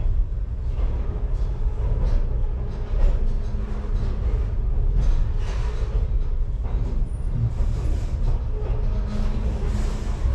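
Train rolling slowly along the track: a steady low rumble of the railcar and its wheels on the rails, with occasional knocks.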